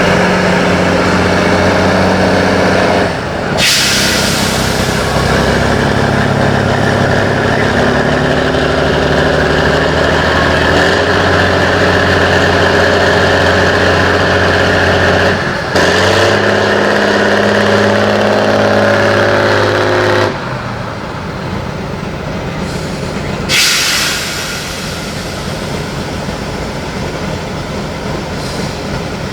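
Tatra 813 off-road truck's diesel engine running hard under load, its pitch stepping up and down several times. Two short bursts of compressed-air hiss come about 4 s in and again near the end. After about 20 s the engine falls back to a lower, quieter level.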